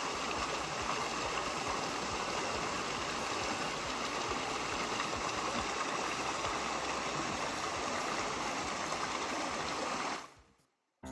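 Small stream flowing steadily, a constant even rush of water that cuts off abruptly about ten seconds in.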